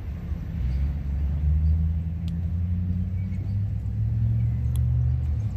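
Low engine rumble of road vehicles, growing louder about a second in and then holding steady.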